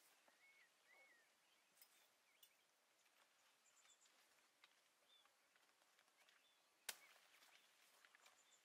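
Faint birds chirping, short scattered calls and a brief high trill, with one sharp knock about seven seconds in.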